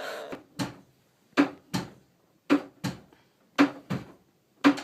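Heartbeat sound effect: slow, dull double thumps, a stronger beat followed closely by a weaker one, repeating about once a second.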